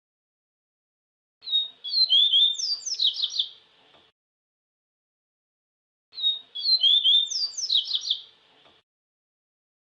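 Papa-capim seedeater singing: two phrases of about two and a half seconds each, quick high whistled notes sliding up and down, one starting about a second and a half in and the next about six seconds in, with dead silence between them.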